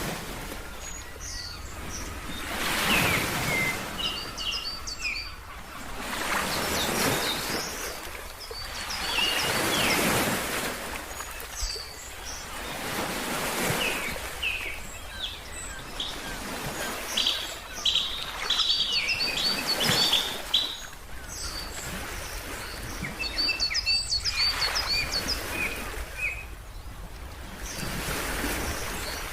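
Ocean waves washing in, swelling and fading every few seconds, with birds chirping in quick runs of short, high notes over them.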